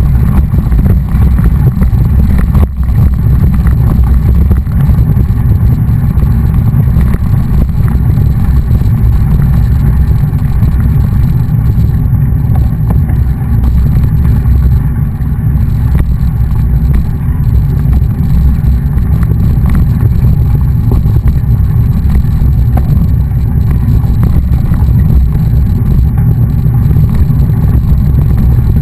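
Steady, loud low rumble of wind buffeting the microphone of a camera carried on a moving mountain bike.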